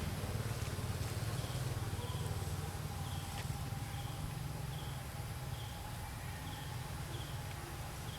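Outdoor ambience: a steady low rumble under a faint high chirp that repeats evenly, about three times every two seconds, from a small calling creature.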